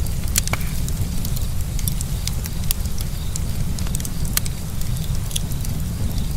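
Bonfire crackling, with irregular sharp pops and snaps several times a second over a steady low rumble.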